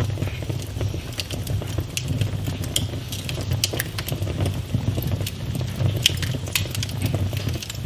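Wood fire burning in a fireplace: steady low rumble of the flames with irregular sharp crackles and pops from the burning logs.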